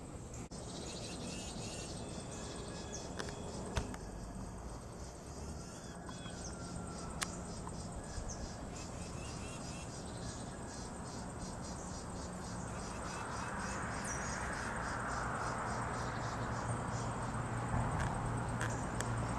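Late-summer insect chorus: a steady high, finely pulsing trill. About two-thirds of the way through, a broad rushing noise grows louder beneath it.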